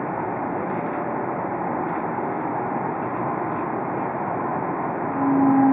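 Steady running noise heard inside a Tohoku Shinkansen car at speed, an even rushing hum with faint ticks. Near the end a louder steady tone at two pitches starts over it.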